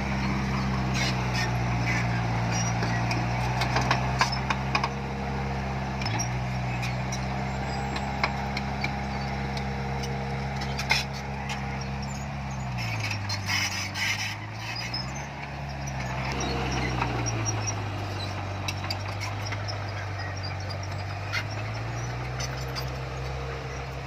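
Diesel engine of a heavy earthmoving machine running, twice dropping in speed and picking back up, with scattered clicks and knocks over it.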